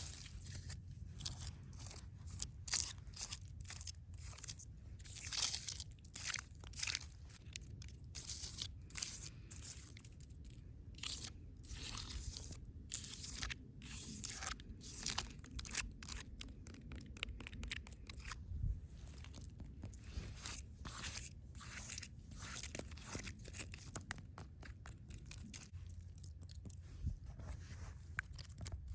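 Close-up, irregular crunching and crackling of dry forest material, many small crisp snaps in quick, uneven succession.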